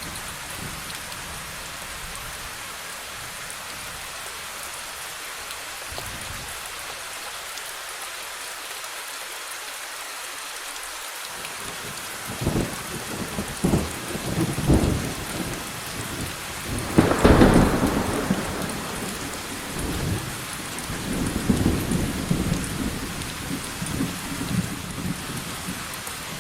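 Steady rain falling, with thunder breaking in about halfway through: a few low rumbles, then a loud clap that rolls on, and more rumbling near the end.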